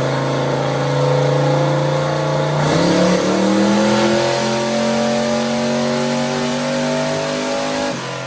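Turbocharged small-block Ford V8 pickup engine running on a chassis dyno: steady for the first few seconds, then about three seconds in it picks up and climbs slowly in pitch under load for about five seconds before easing off near the end. This is a test pull while the boost controller is being set up.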